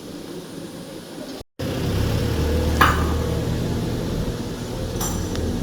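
Low background noise, cut by a brief dropout, then a louder steady low engine-like hum of running machinery. Two short sharp knocks come over the hum, about a second after it starts and again near the end.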